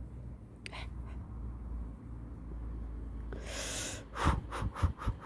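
Hands digging and rummaging through garden soil for potatoes: a steady low rumble, then a hissing rustle about three and a half seconds in, followed by a quick run of scrapes and soft thumps near the end.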